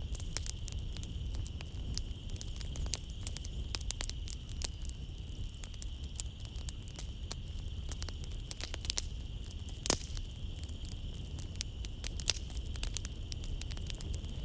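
Wood fire crackling in a fireplace: a dense run of sharp pops and snaps over a low rumble, with one loud pop about ten seconds in. A steady high drone of night insects runs beneath it.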